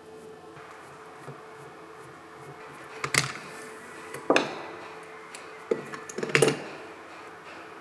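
Sharp knocks and clatters of tools and alternator parts being handled on a workbench: single knocks about three, four and a half and five and a half seconds in, then a short rattling run about a second before the end, over a steady low hum.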